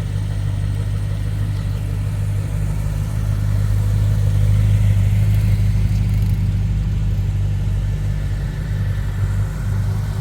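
A car engine idling nearby, a steady low rumble that swells a little midway.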